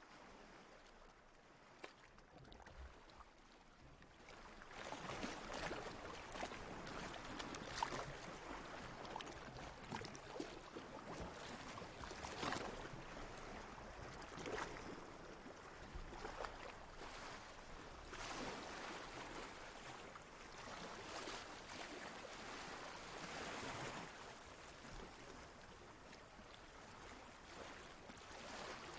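Faint ocean water, small waves lapping and splashing, rising and falling in slow swells. It grows louder about four seconds in.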